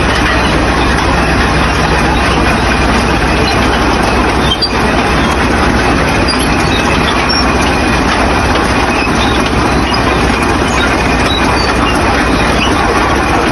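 Vehicle running, with a steady, loud rumble of engine and road noise and a low hum underneath.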